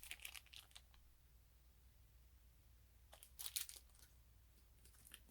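Near silence, broken twice by brief, faint rustling of packaging being handled: once right at the start and again a little past three seconds in.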